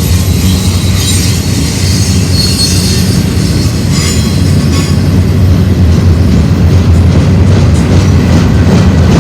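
Freight train cars rolling past close by, a steady heavy rumble with high-pitched wheel squeal in the first few seconds and a run of wheel clicks over the rail joints near the end.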